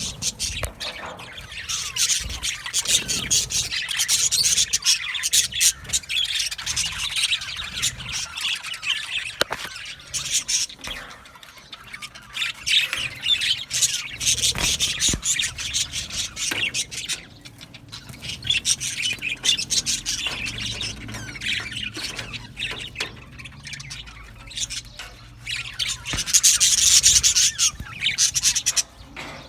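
A flock of budgerigars chattering and warbling, with constant overlapping chirps and squawks.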